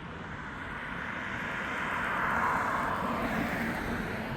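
A vehicle passing by: a rushing noise that swells to a peak about two seconds in and then slowly fades.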